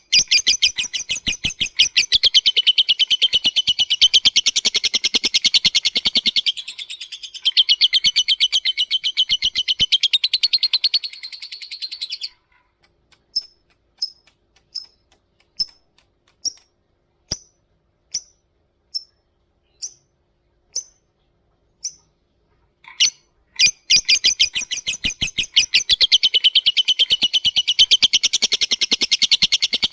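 Lovebird chattering in a long, rapid, high-pitched trill (the 'ngekek'), breaking off about twelve seconds in into single sharp chirps roughly one a second, then launching back into the long rapid trill near the end.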